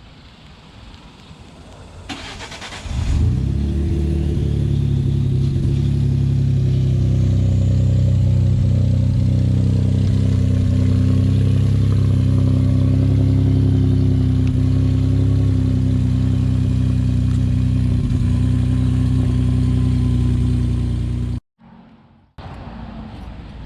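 Ford F-150's 3.5-litre EcoBoost V6 cold-started. The starter cranks briefly, the engine catches about three seconds in and settles into a loud, steady fast idle. It cuts off abruptly near the end, then a quieter running sound returns. This is a cold start checked for the timing-chain rattle.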